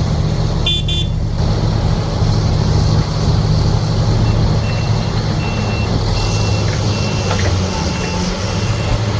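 Heavy machine's engine running steadily. A short high-pitched beep sounds about a second in. From about four seconds in, a backup alarm beeps at an even pace, about three beeps every two seconds.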